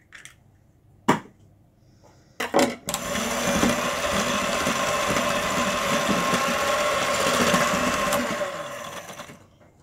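Electric mixer beating a butter-and-sugar cake batter with an egg just added. It runs steadily for about six seconds, starting about three seconds in and winding down near the end. A click and a knock come before it starts.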